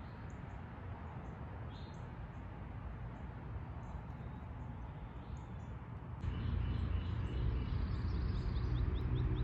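Outdoor ambience with birds chirping now and then. About six seconds in it changes suddenly to a louder low rumble, with a fast, even run of short chirps.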